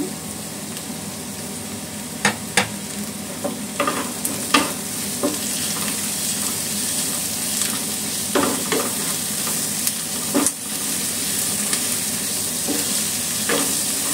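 Onion, shallots, garlic and grated ginger sizzling as they fry in ghee in a wok, stirred with a wooden spatula that knocks sharply against the pan several times.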